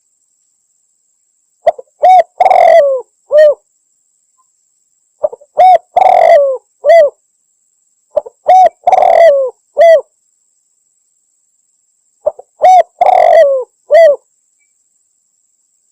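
Spotted dove calling, a phrase repeated four times about every three and a half seconds. Each phrase runs a few short notes into a longer coo and ends on a falling note.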